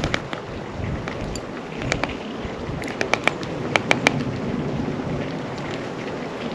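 Sharp, ringing taps at a bird feeder over steady wind noise on the microphone: three quick taps about three seconds in, then three more a moment later.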